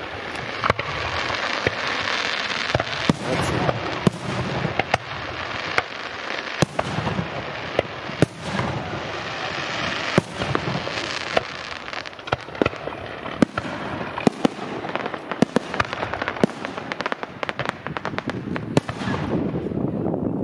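Fireworks and firecrackers going off: a dense, continuous crackle with many sharp bangs in quick, irregular succession.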